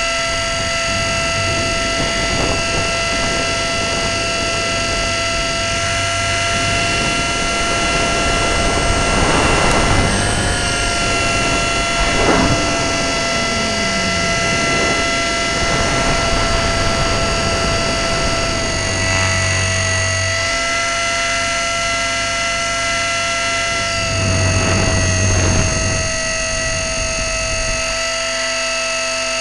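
E-flite Blade 400 RC helicopter's electric motor and rotor heard from the onboard camera in flight: a steady high whine with overtones over rotor and wind noise, shifting slightly in pitch and loudness as the throttle changes.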